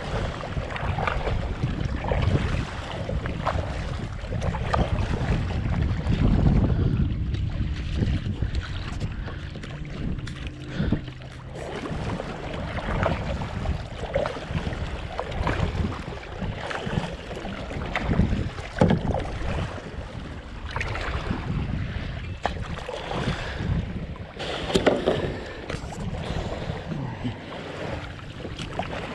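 Water splashing in irregular strokes, typical of a kayak paddle dipping into lake water, with wind buffeting the GoPro microphone as a low rumble.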